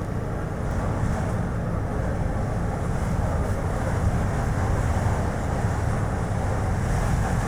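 Strong wind buffeting the microphone over the steady low rumble of a Chevrolet Spark light car's road and tyre noise as it drives.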